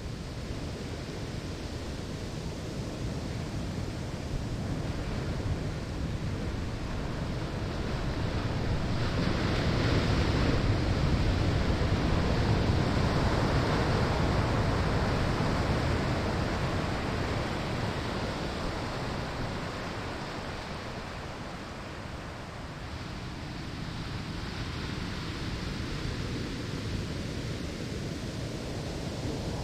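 Surf breaking on a sandy shore: a steady wash of ocean waves that swells to a louder break partway through, eases off, then builds again near the end.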